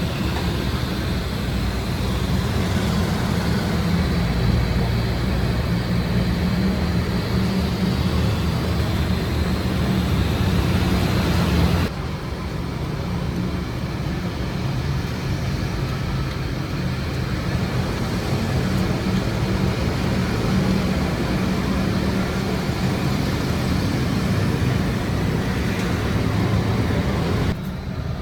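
Workshop machinery running steadily with a low hum and a noisy rush, broken by an abrupt cut about twelve seconds in and another near the end.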